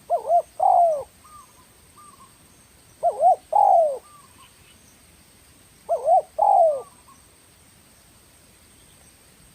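Spotted dove (tekukur) cooing: three phrases about three seconds apart, each two short coos followed by a longer falling one.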